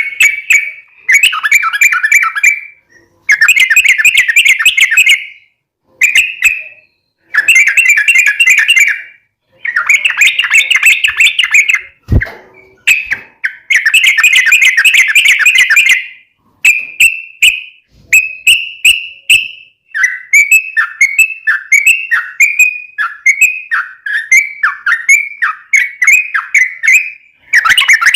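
Yellow-vented bulbul (trucukan) singing loud bubbling phrases, some of them long unbroken runs of about two seconds, with short pauses between them; later the phrases break into a string of quick falling notes about two a second. A single brief knock about twelve seconds in.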